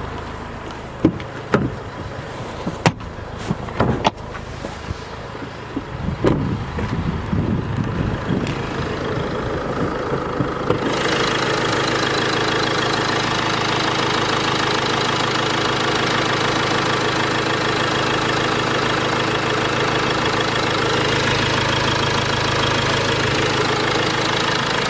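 A string of clicks and knocks over a low engine hum, then from about eleven seconds in the Land Rover Discovery Sport's 2.0-litre TD4 four-cylinder turbodiesel idling steadily and much louder and fuller.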